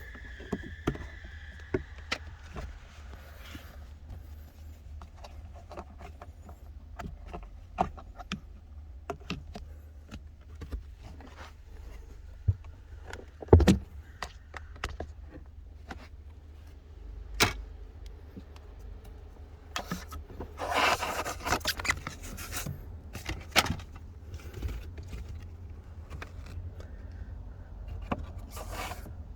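Scattered plastic clicks, knocks and rustling from handling the car's glove box and cabin air filter housing. A sharp knock comes about halfway through and another a little later, then a longer scraping rustle about two-thirds of the way in. A steady low hum runs underneath.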